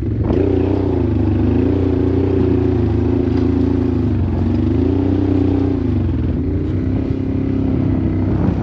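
Honda Transalp motorcycle engine pulling under load through a loose riverbed, its pitch rising and falling several times as the throttle is worked.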